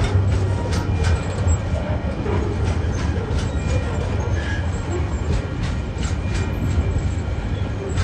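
Freight train of container and tank wagons rolling past: a steady low rumble from the wheels on the rails, with irregular sharp clacks as the wheels pass over the rail joints.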